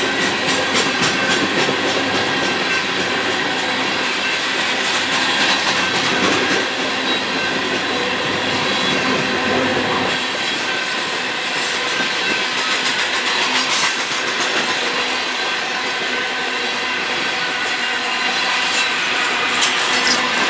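Coal train cars rolling steadily past, their wheels clicking over the rail joints, with some wheel squeal.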